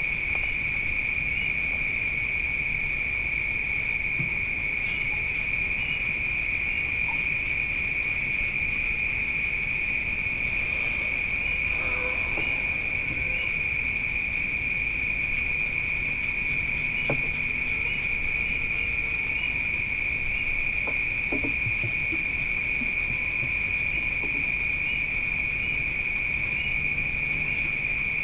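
Night insect chorus: a continuous shrill trill held at two steady high pitches, with a few faint knocks in the background.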